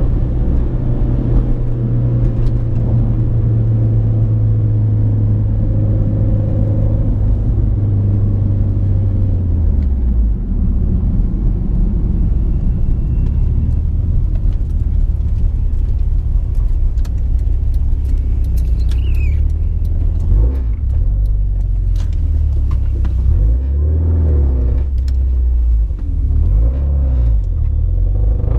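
A car engine running steadily under way, a deep drone that drops lower about nine seconds in and stays there, with a few light clicks and knocks later on.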